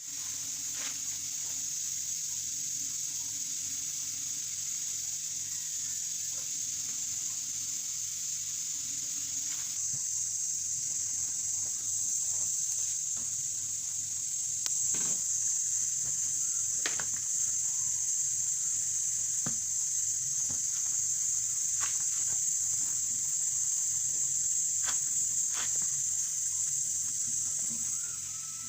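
A steady high-pitched hiss with a few sharp clicks scattered through it.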